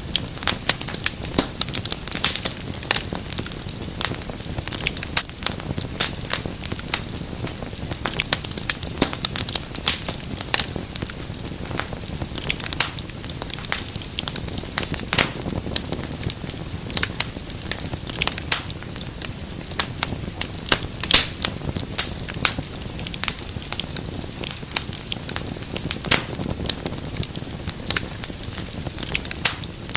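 Wood fire crackling: many sharp, irregular pops and snaps over a steady low hiss of burning.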